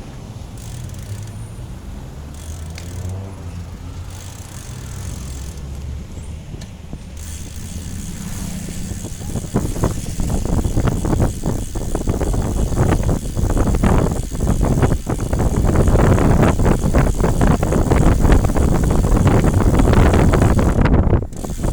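A vehicle's engine running low with shifting pitch. From about nine seconds in it is buried under loud, gusty wind on the microphone and a dense rattling, as of moving at speed down the road.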